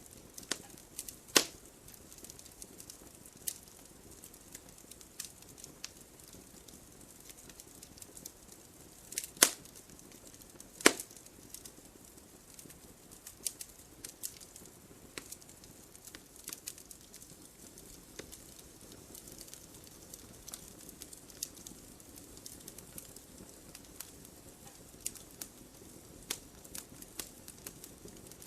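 Campfire crackling: irregular sharp pops and snaps over a soft, low rush of flame. A few pops stand out louder, one about a second and a half in and two close together around the middle.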